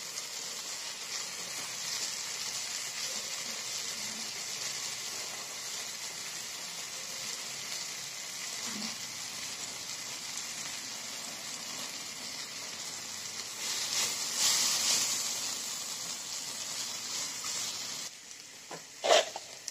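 Onions, tomatoes, chillies and garlic sizzling in oil in a nonstick frying pan, with grated coconut being stirred in with a wooden spatula. The sizzle is steady, swells louder for a moment about three-quarters of the way through, then falls away near the end, where a couple of short knocks are heard.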